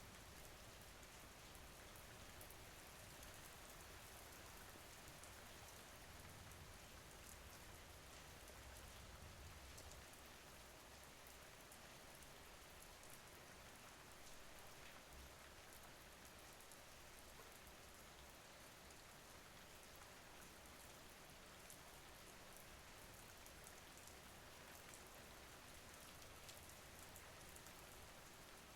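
Faint, steady rain falling, an even hiss with scattered small drop ticks.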